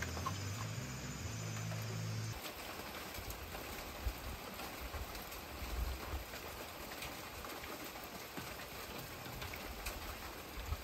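Steady rain falling, an even hiss with a few faint drips. A low hum is heard under it until it cuts off about two seconds in.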